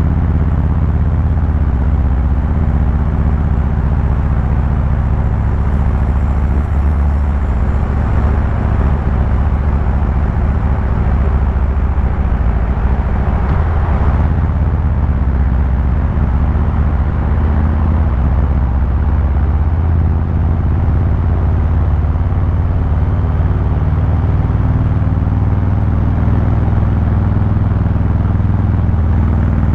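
Harley-Davidson Fat Boy 114's Milwaukee-Eight 114 V-twin engine and exhaust, heard from the rider's seat while cruising at a steady, relaxed throttle. The low rumble holds an even level throughout, with a brief swell of noise about midway.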